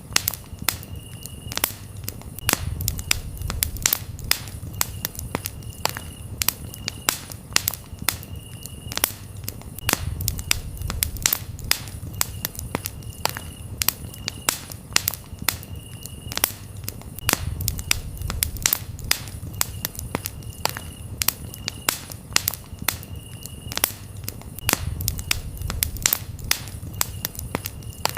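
Campfire crackling with frequent sharp pops and snaps over a low rumble of the burning fire that swells and fades every several seconds, while crickets chirp in short repeated trills in the background.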